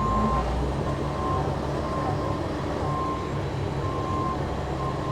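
Self-propelled sprayer's reverse alarm beeping about once a second over the steady run of its Cummins diesel engine, heard from inside the cab.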